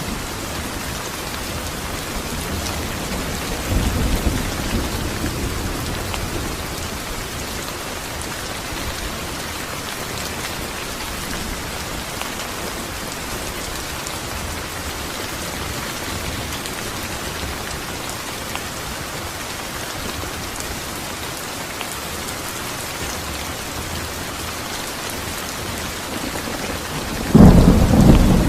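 Steady rain falling, with a low rumble of thunder about four seconds in and a loud thunderclap near the end.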